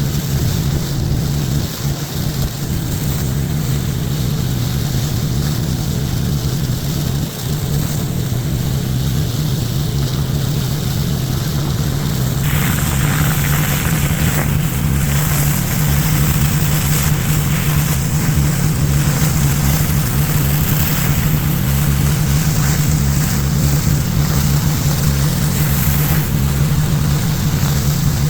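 Gas pressure washer engine running steadily under load while its water jet sprays onto pavement; the spray hiss gets louder about twelve seconds in.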